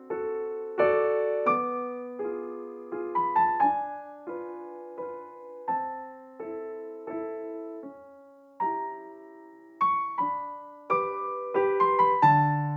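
Background music: gentle piano, single notes and chords struck and left to ring, with a low note coming in near the end.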